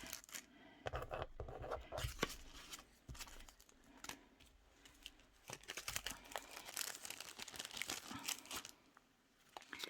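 Paper rustling and crinkling as craft papers and pieces are handled and sorted, with small clicks and taps; the rustling is busiest in the second half and dies down near the end.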